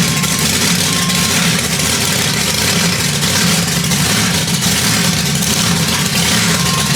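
A large engine running steadily at idle, with a low pulsing throb. A few short, faint high beeps sound near the start and again near the end.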